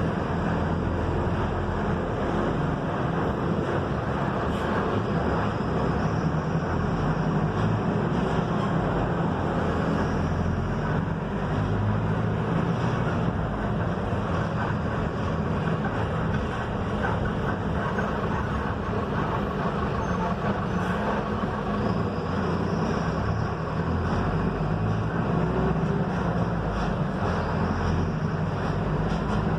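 Mercedes-Benz OF-1721 BlueTec 5 bus's diesel engine running under way, with steady road and body noise heard from inside the moving bus.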